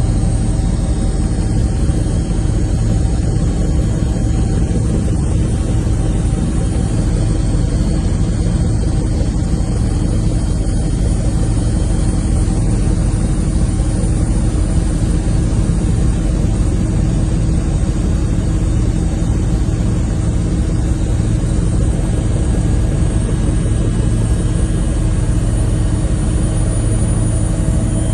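A steady, loud engine hum with a constant low drone.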